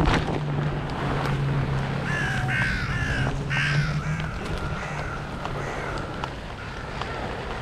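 Crows cawing: a run of several short, falling caws in the middle, with fainter caws later, over a low steady hum and wind noise.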